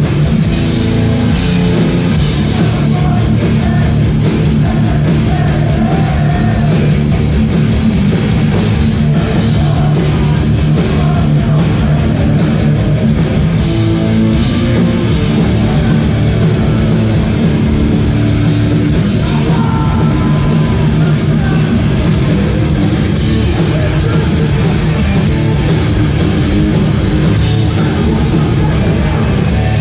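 Hardcore band playing live at full volume: heavily distorted electric guitars, bass and a drum kit driving on without a break.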